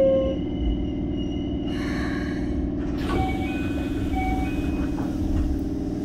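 Interior sound of a Keikyu 600 series train drawing to a stop. The Mitsubishi GTO-VVVF inverter's falling whine dies away about half a second in. A short hiss of air follows about two seconds in, then a few short electronic beeps, over the steady hum of the stopped car's equipment.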